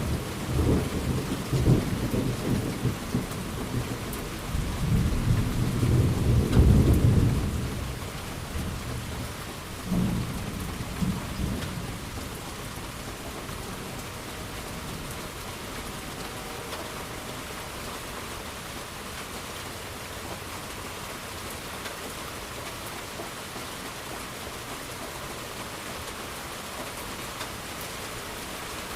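A long roll of thunder over steady rain, swelling to its loudest about six seconds in and fading by eight, with a smaller rumble about ten seconds in; after that the rain alone goes on evenly.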